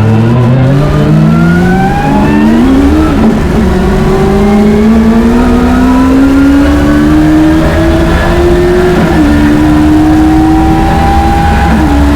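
Vauxhall Corsa B's engine, loud from inside the cabin, pulling hard up through the gears: its pitch climbs steadily, drops sharply at a gear change about three seconds in, then climbs again with smaller dips at about nine seconds and just before the end.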